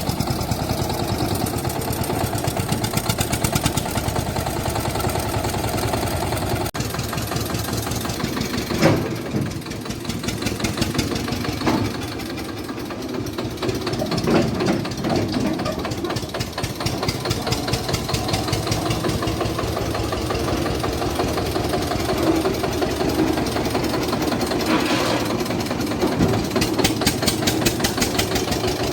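Eicher tractor's diesel engine running steadily, with a few brief louder clatters along the way.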